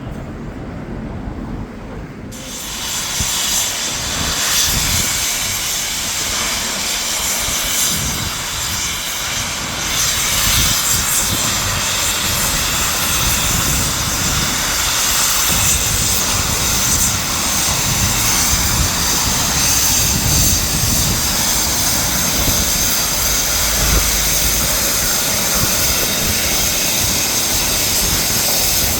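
Steam locomotive at close range with a loud, steady hiss and rush of steam over uneven low chuffing and rumbling. The hiss starts suddenly about two seconds in.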